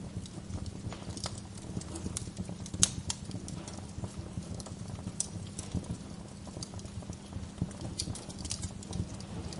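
Wood fire crackling: irregular sharp pops and snaps over a low steady rumble, with the loudest pop about three seconds in.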